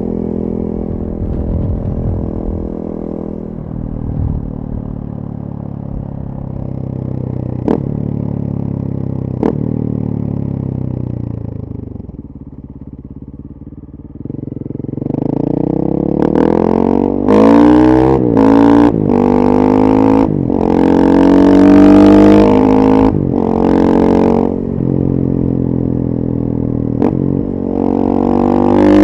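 2014 KTM 450 EXC supermoto's single-cylinder four-stroke engine through a full FMF 4.1 exhaust, ridden. It runs steadily with revs easing off for the first dozen seconds, drops low for a couple of seconds about halfway, then pulls hard and louder with repeated rising revs, each cut short by a gear change.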